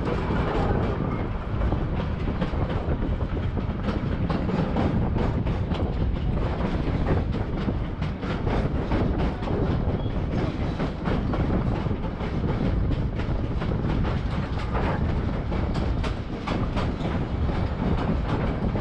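Moving train heard from an open-sided passenger car: a steady rumble of wheels on the rails, with frequent small clicks and clatter.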